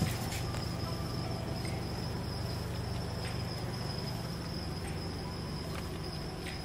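Mitsubishi Mivec CK four-cylinder engine idling steadily at about 700 rpm, fully warm, with a thin steady high whine over the low engine hum.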